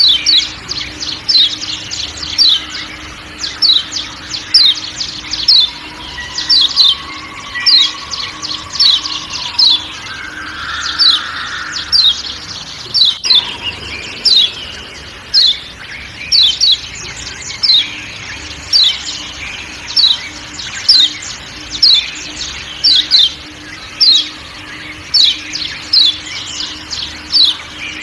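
Kecial kuning (Lombok yellow white-eye) giving a long run of sharp 'ciak ciak' calls: short, high notes falling in pitch, often in quick pairs, about two a second, over faint forest background.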